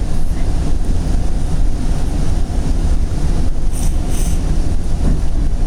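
Steady running rumble of a moving commuter train heard from inside the passenger coach, wheels rolling on the rails. Two brief high-pitched sounds come about four seconds in.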